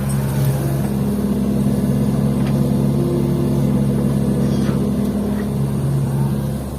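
Diesel engine of a working excavator running steadily at an even pitch, with the dump truck's engine idling alongside, as fill soil is loaded into the truck bed.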